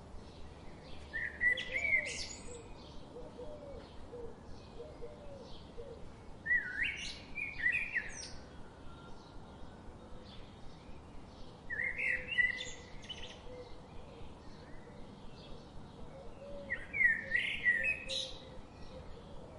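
Common nightingale singing: four loud, varied song phrases, each a second or two long and about five seconds apart, with faint short chirps in between.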